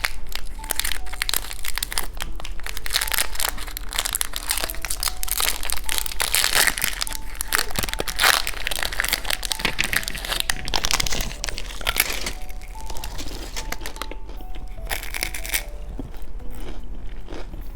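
Plastic candy wrapper crinkling and crackling irregularly as it is handled and unwrapped, thinning out after about twelve seconds. A faint tune plays underneath.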